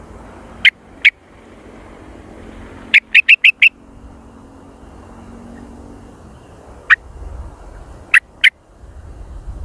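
Sooty-headed bulbul calling in short, sharp, loud chirps: two single notes, then a quick run of five, then a single note and a closing pair.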